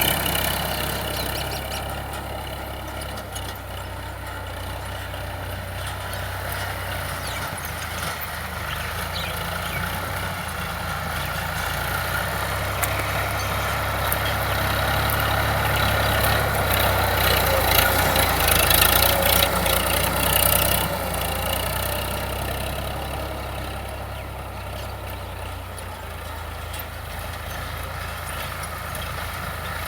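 Tractor diesel engine running steadily, growing louder to a peak a little past the middle and then easing off again.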